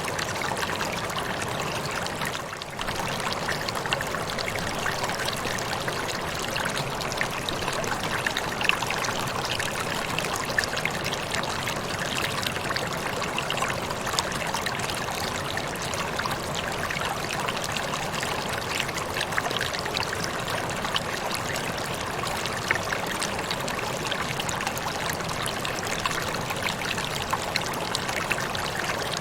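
Waterfall: water falling and splashing in a steady continuous rush, with small splashes scattered through it and a brief dip in level about two and a half seconds in.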